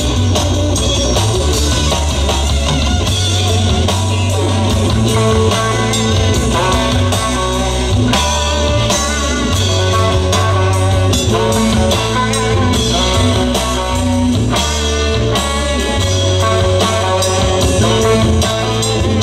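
Live rock band playing an instrumental passage: electric guitar over bass and drum kit, with no singing.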